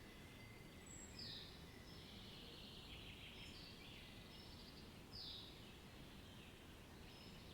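Songbirds singing faintly over a low background hiss: a repeated phrase of a falling whistle followed by a buzzy trill, twice, with a few short high chirps in between.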